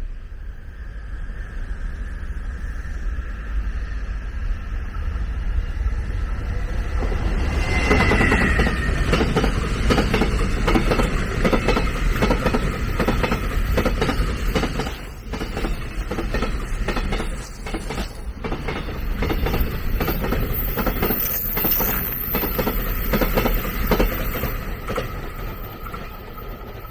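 A train passing on the line: a rumble with faint steady tones that swells, then from about eight seconds in a long run of rapid wheel clacks over rail joints, fading near the end.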